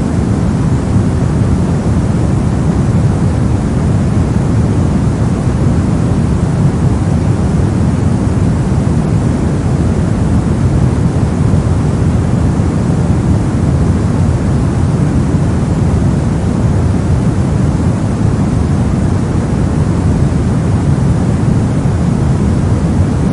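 Steady soft noise of the kind played for sleep or focus, unchanging, with most of its weight in the low, deep end and only a faint hiss on top.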